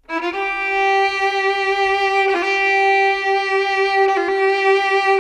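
Slow background music on a solo violin, a few long held notes.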